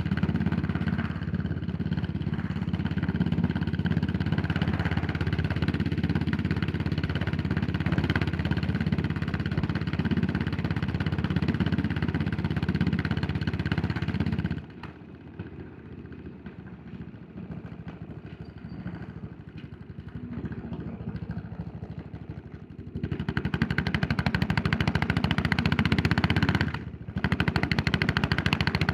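Yamaha SR400's single-cylinder four-stroke engine heard from the rider's seat, running steadily under throttle, then dropping suddenly to a much quieter run about halfway through. It picks up again near the end, with a short break about two seconds after it comes back.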